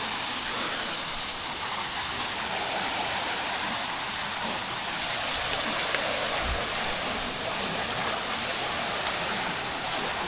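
Steady rush of falling water from a nearby waterfall, an even hiss with no letup, with a couple of faint ticks.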